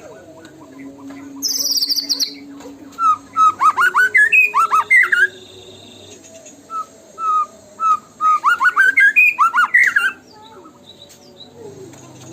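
White-rumped shama singing: a high, fast trill about a second and a half in, then loud bursts of rapid, sliding whistled notes broken by short pauses and a run of evenly spaced single notes.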